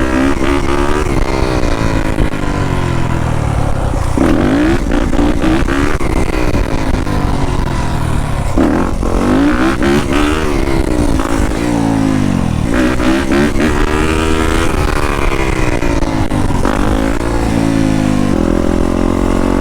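Yamaha YZ250F four-stroke single-cylinder dirt bike engine revving up and dropping back several times under throttle, then settling to a steady note near the end.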